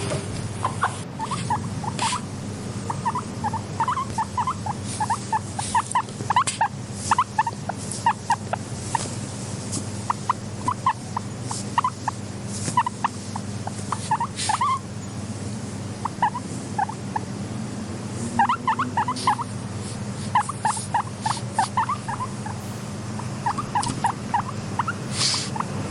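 Guinea pigs making short squeaks in quick runs, with occasional sharp clicks, over a steady low hum.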